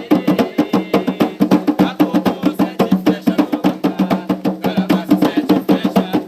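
Hand drums, atabaques as used for Umbanda pontos, played in a fast, steady rhythm of dense strokes with no singing.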